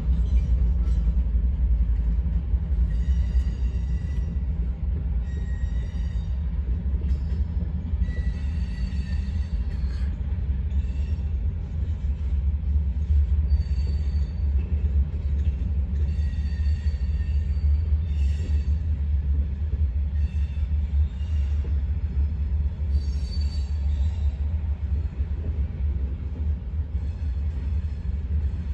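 CSX freight train's cars rolling past with a steady low rumble, and brief high-pitched wheel squeals coming and going every few seconds.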